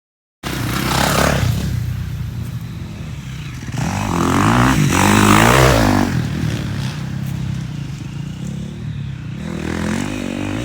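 Off-road motorcycle engine running and revving, its pitch rising and falling, with the loudest, highest revving about four to six seconds in.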